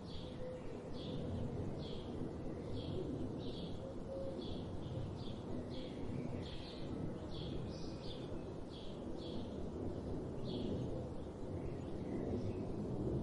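Forest birdsong: a bird repeating a short, high call about twice a second, over a steady low background rumble.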